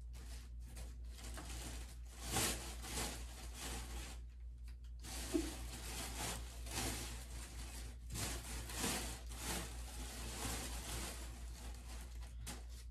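Close rustling and rubbing, as of things handled right next to the microphone, in irregular bursts with a short lull about four seconds in.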